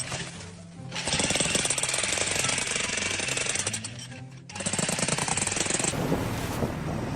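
Rapid, continuous mechanical hammering like a jackhammer, in two long bursts with a short break a little before halfway, over background music.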